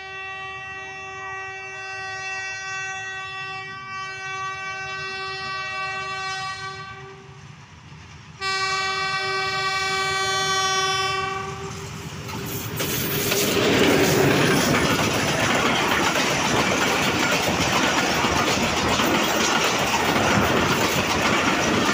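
Diesel locomotive horn sounding two long blasts, the first about seven seconds and the second shorter after a brief gap, as a passenger train approaches. Then the locomotive and coaches pass close by: a loud, steady rush with the wheels clattering over the rails.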